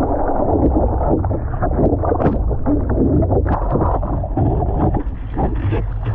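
Muffled water sloshing and splashing, with wind rumbling on the microphone.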